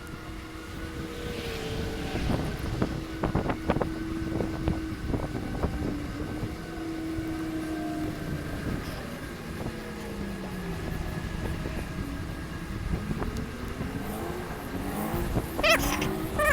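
Wind on the microphone and tyre rumble while riding a bicycle, with a steady humming whine that slowly drops in pitch past the middle and climbs again near the end. A few sharp clicks come between about two and five seconds in.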